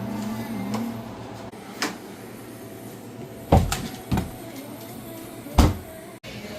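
Four short, sharp knocks and thumps in a kitchen, like cupboard doors or things being set down on a counter. The second and fourth are the loudest.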